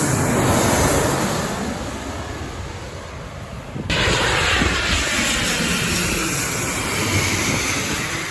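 Aircraft engine noise from a plane passing near the airfield: a loud, even rushing that sweeps in pitch as it moves. About four seconds in the sound cuts abruptly and resumes louder.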